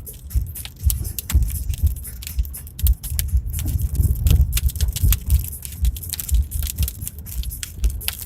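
A car driving over a rough dirt track, heard from inside the cabin: irregular suspension thumps and loose rattling and clatter as it bounces.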